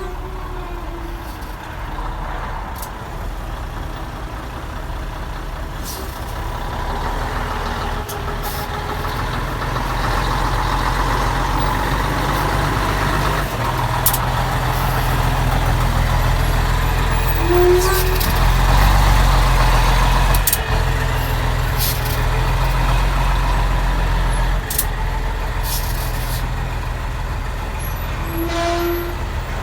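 Scania R112 360 truck's 11-litre turbo-diesel straight-six running steadily. Its note steps up about halfway through and drops back near the end, with a few short clicks.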